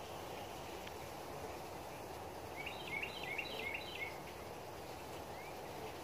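Steady outdoor background noise, with a bird giving a quick run of about six chirps, each dropping in pitch, for about a second and a half midway.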